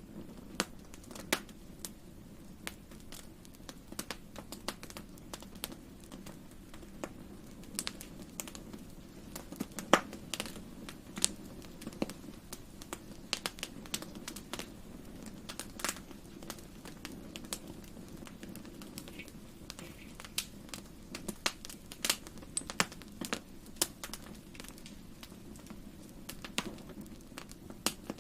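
Wood fire crackling in a fireplace: irregular sharp pops and snaps, the loudest about ten seconds in, over a low steady rumble of the flames.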